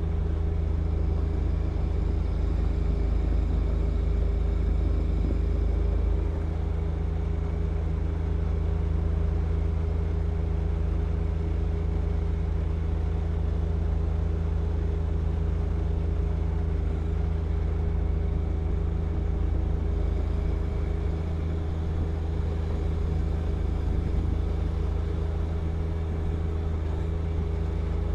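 John Deere 1025R compact tractor's diesel engine running at a steady speed, driving the snow blower.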